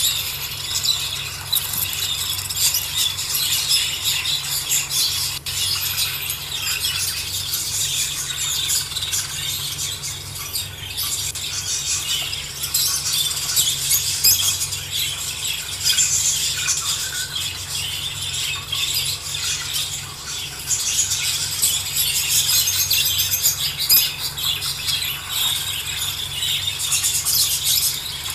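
A flock of caged budgerigars and lovebirds chirping and chattering together: a dense, continuous high twittering with many overlapping squeaky calls.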